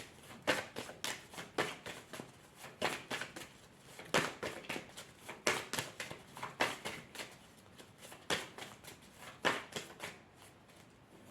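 Oracle cards being shuffled by hand: a string of short, sharp card snaps, about two a second, irregular.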